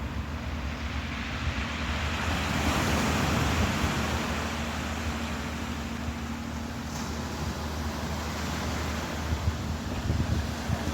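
Ocean waves washing in, with wind buffeting the microphone; one wave swells up about two to four seconds in. A low steady hum runs underneath.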